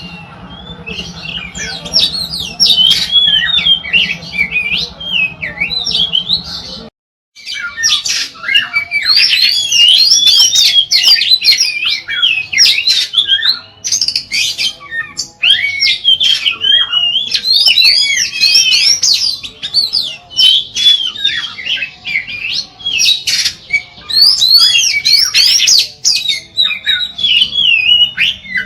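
Oriental magpie-robin (kacer) singing continuously, a fast, varied run of loud whistles and chattering notes, broken by a sudden short silence about seven seconds in.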